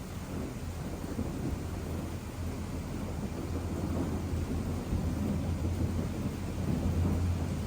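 Thunder rumbling low and continuously, swelling slightly louder near the end.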